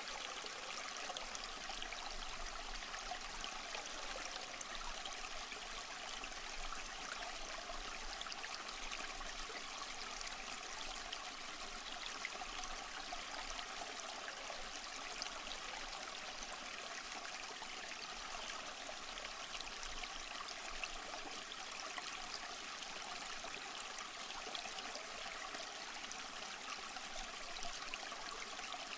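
Small stream flowing steadily over rocks, an even rush of water with light trickling splashes.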